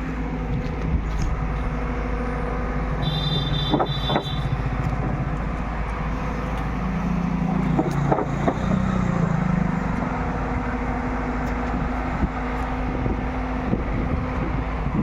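JCB 3DX backhoe loader's diesel engine running steadily while digging. Its note thickens under load twice, around three to four seconds in and again around seven to ten seconds. A short high squeal sounds around three seconds in, and a few sharp knocks come around four and eight seconds.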